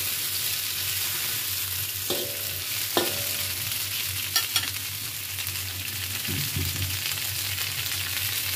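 Chopped bell peppers sizzling in hot oil in a wok, with a few sharp clinks of a metal spatula against the pan as they are stir-fried.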